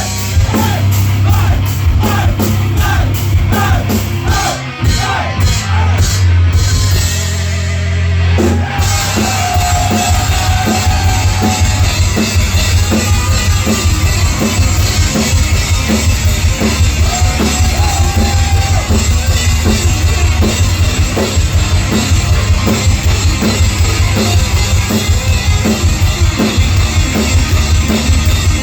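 Heavy metal band playing live: drum kit, distorted electric guitars and bass, loud throughout. About seven seconds in the band holds a chord briefly, then kicks into a fast, driving drum beat.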